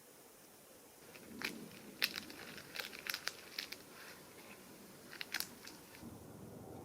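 A run of sharp crunches and crinkles for about four and a half seconds. About six seconds in, the low, steady drone of a helicopter sets in.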